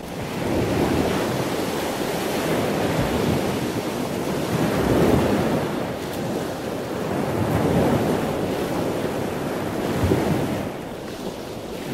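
Rushing, surging water like waves washing, swelling and easing every few seconds.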